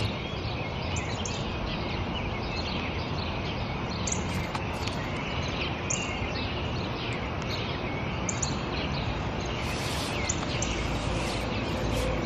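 Small birds chirping and twittering over a steady outdoor background hiss. Low, soft music comes in near the end.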